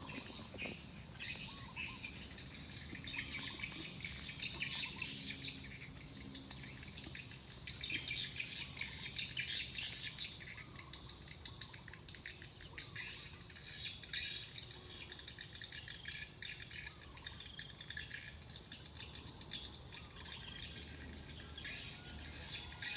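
Dense, steady insect chirring, cricket-like, with short bird calls scattered through it.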